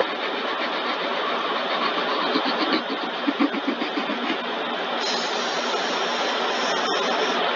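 Automatic car wash tunnel equipment running with a steady rushing noise, water spray and machinery together, with a short run of fast ticking about two seconds in.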